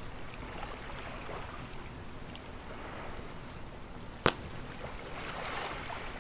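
Wood campfire crackling with scattered sharp pops, one loud pop about four seconds in, over ocean waves washing on a shore, a wave swelling near the end.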